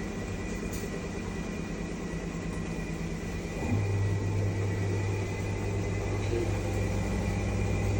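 Washing machine in its spin (dehydration) stage: a steady motor hum with a thin high whine. The low hum weakens early on and comes back stronger about three and a half seconds in, as the motor drives the drum again.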